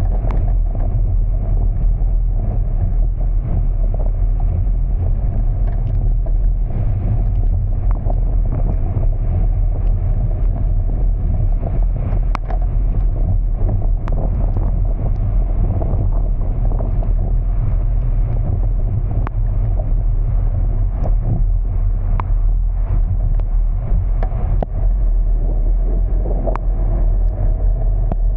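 Steady low rumble of a car driving, with a few faint sharp clicks scattered through it.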